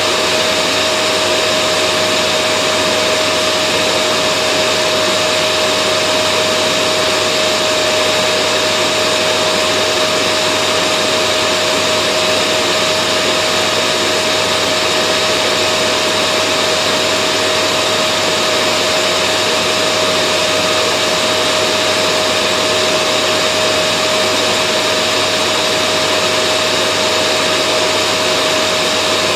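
Vacuum cleaner running steadily: an even rushing noise with a constant motor whine, unchanging throughout.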